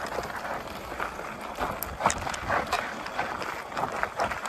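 A mountain bike loaded with a hand tamper and a shovel moving along a dirt trail: irregular clunks, knocks and crunches from the tools and the ground.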